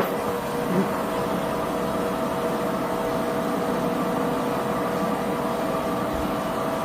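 2008 Haas TL-3B CNC lathe running, a steady mechanical hum with several held tones, and a short knock just under a second in.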